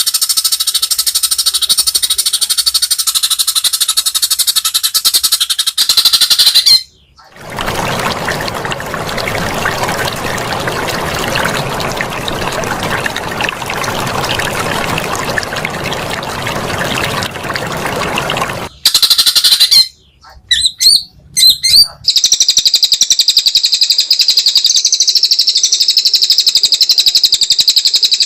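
Recorded songbird song: rapid high chattering trills and squawks, played as masteran training song for caged songbirds. From about seven seconds to nineteen seconds the birdsong gives way to a steady rushing noise, and after a few short breaks the rapid trilling comes back.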